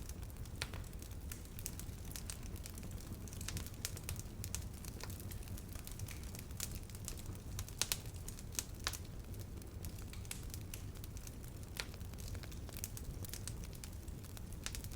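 Wood campfire crackling: irregular sharp pops and snaps over a low steady rumble, with a few louder pops close together about halfway through.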